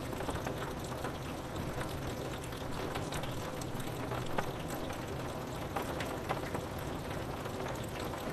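Steady rain falling on a window, with many scattered drops ticking on the glass.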